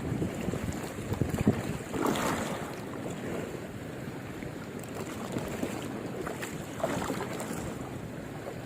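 Wind buffeting the microphone over the wash of sea water, swelling briefly about two seconds in and again near the end.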